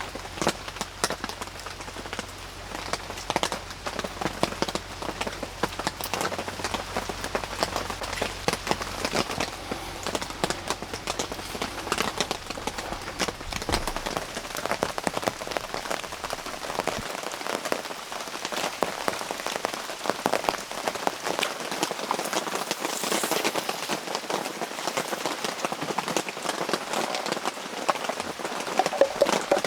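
Rain pattering steadily on a surface, a dense spread of small drop taps, with a faint low hum underneath that stops about halfway through.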